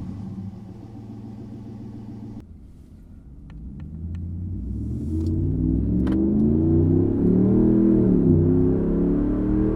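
Ram 1500 5.7 HEMI V8 exhaust under acceleration. A short stretch of steadier running ends abruptly, then the engine note climbs, drops once at a gear change about eight seconds in, and climbs again.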